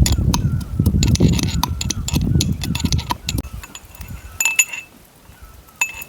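Strong wind buffeting the microphone, with scattered clicks and clinks. The wind drops after about three seconds, leaving a few sharp metallic clinks.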